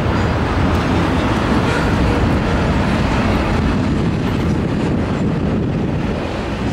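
CSX double-stack container train rolling past: a steady rumble of the cars' steel wheels on the rails.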